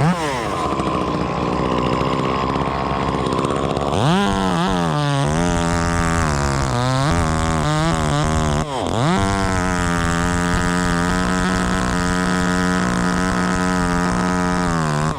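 Two-stroke chainsaw revving to full throttle, its pitch dipping and recovering while cutting. It drops briefly about nine seconds in, then holds at high speed until it falls off at the end.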